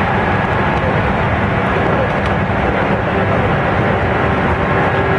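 Running noise of a Mito Line electric train heard from inside the carriage: a steady rumble of wheels on rail, with a faint steady tone above it that grows a little clearer near the end.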